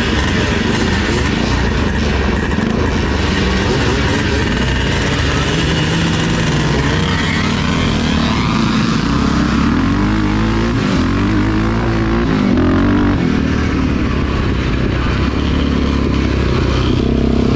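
Vintage motocross motorcycle engines running hard, the pitch rising and falling repeatedly as the throttle is worked.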